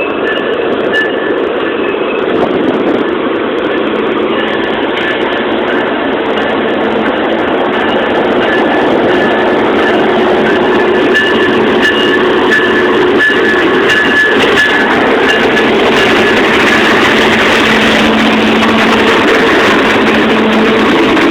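Freight train rolling past: a steady, loud rumble and rattle of wheels on rail, with thin high-pitched squeals coming and going.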